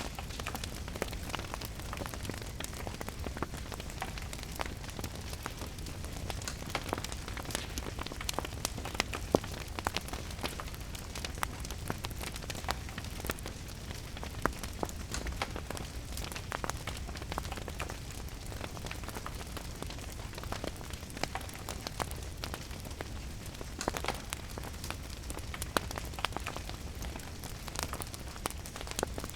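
Wood fire crackling with frequent sharp pops, a louder one about nine seconds in, over a steady hiss of rain and a low rumble.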